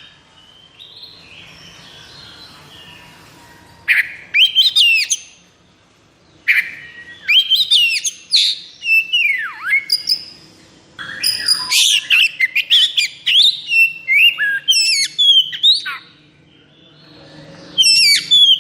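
Oriental magpie-robin singing loud phrases of rapid whistled and chattering notes that sweep up and down in pitch. The phrases come in bursts of a few seconds, about four of them, with short pauses between.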